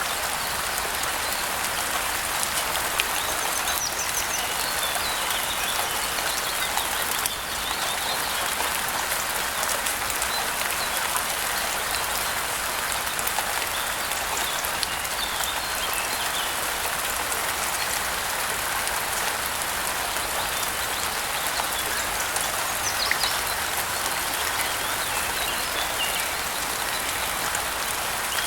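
Steady rainfall, an even hiss of drops. Faint bird chirps come through now and then.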